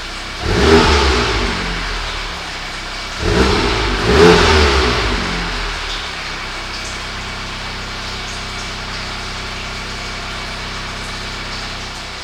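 2018 Volkswagen Golf R's 2.0-litre turbocharged four-cylinder, breathing through the stock exhaust with the resonator deleted. It is blipped twice, the revs rising and falling each time, then settles back to a steady idle.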